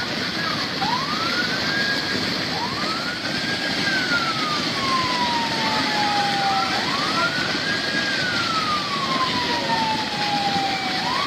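A siren wailing in repeated cycles, each climbing quickly and then sinking slowly over about four seconds, over a loud steady rushing noise.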